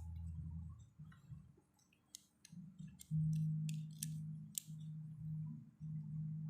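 Several sharp clicks and taps from multimeter test probes on the CRT television's circuit board while the horizontal output transistor is tested for a short. Under them runs a low steady hum that breaks off and returns.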